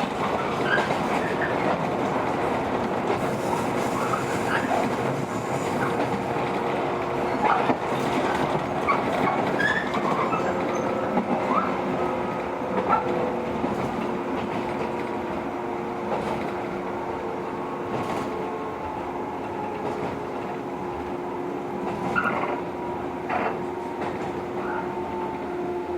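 Interior running sound of a JR 115 series electric train slowing toward a station: a steady rolling rumble with rail-joint clicks and short squeals from the wheels and brakes, getting a little quieter toward the end.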